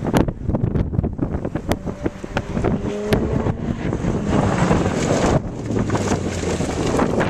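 Wind buffeting the microphone over the sound of sports car racing engines on a circuit, the engines rising in pitch as they accelerate.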